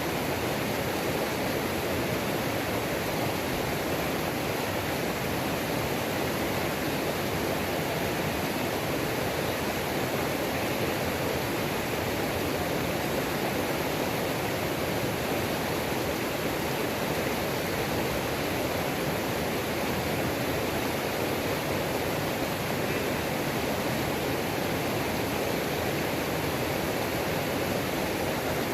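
Small waterfall and creek cascading over rocks: a steady, unchanging rush of water.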